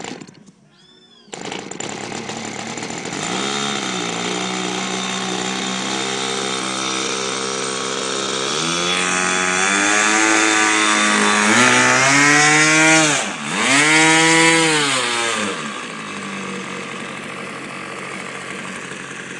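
OS 55 two-stroke glow engine of a model airplane turning a 12x6 propeller. It comes in abruptly about a second in and runs steadily, then is throttled up to high revs, with a brief sharp drop and recovery. It settles back to a lower idle for the last few seconds.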